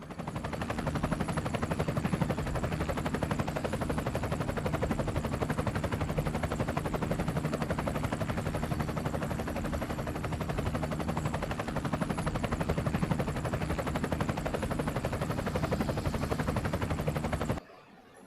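Helicopter rotor blades making a rapid, steady chopping. The sound cuts off suddenly near the end.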